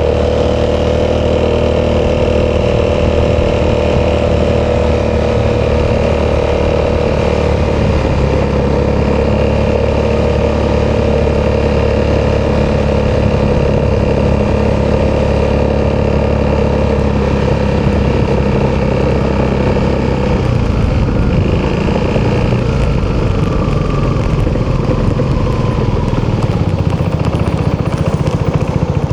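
Italjet Dragster 200's single-cylinder four-stroke engine running through an Akrapovic exhaust, heard from on board while riding. The engine note holds steady, then changes a few times as the revs shift.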